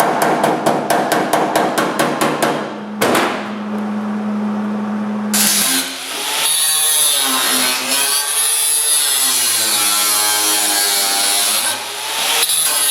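Metalworking on a steel door frame. First comes a rapid, even clatter, about eight clicks a second, over a steady hum. About five and a half seconds in, an angle grinder with a cutting wheel starts up and cuts, its pitch rising and falling as the load changes, then stops near the end.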